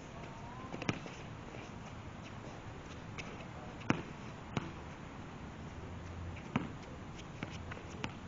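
Basketball bouncing on a court: a handful of separate, irregularly spaced bounces, the loudest about four seconds in.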